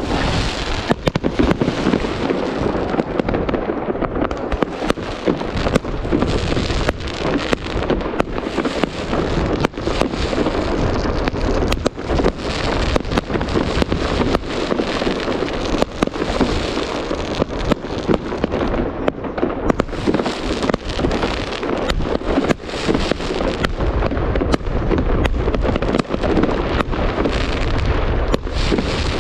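Fireworks salute going off in a dense, unbroken barrage: many sharp bangs and crackles a second over a constant low booming.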